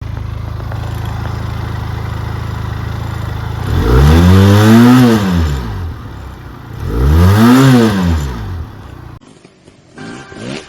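Benelli motorcycle engine idling steadily, then revved twice, each rev rising and falling back. The engine sound cuts off, and music starts near the end.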